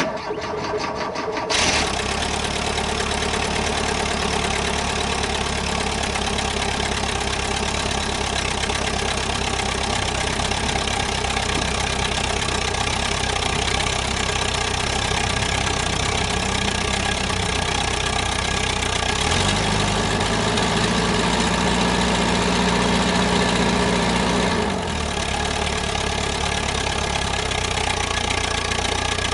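VW bus engine cranked on the starter for about a second and a half, catching and settling into a steady idle. About two-thirds of the way through it runs a little faster for several seconds, then drops back to idle.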